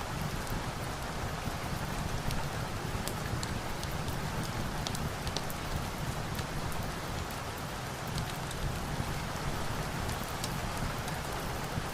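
Steady heavy rain mixed with a crackling fireplace: an even rain hiss with scattered small, sharp pops and ticks.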